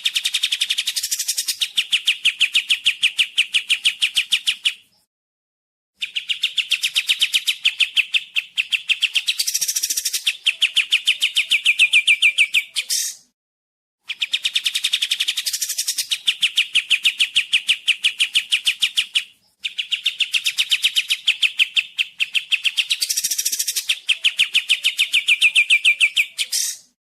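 Kapas tembak singing: fast trills of rapidly repeated notes, about ten a second, in phrases several seconds long separated by short breaks.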